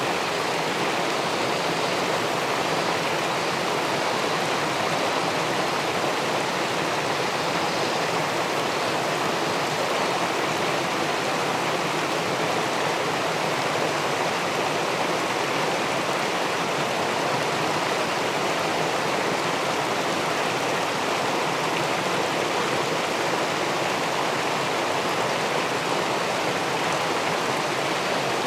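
Steady rushing of river water pouring over a weir into the pool below, an even, unbroken flow.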